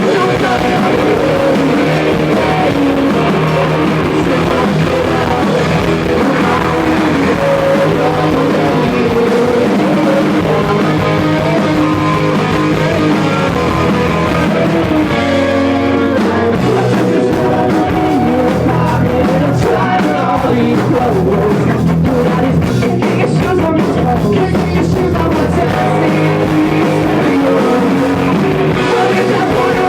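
Live rock band playing a song: electric guitar with sung vocals.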